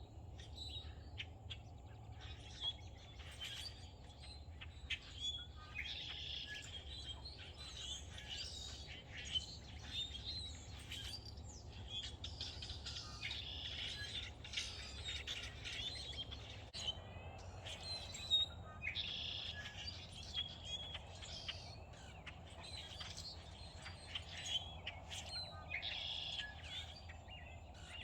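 Songbirds chirping and calling in a dense, overlapping stream of short high chirps, over a steady low hum.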